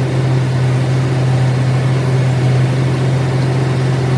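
Workshop machinery running with a steady low hum that does not change.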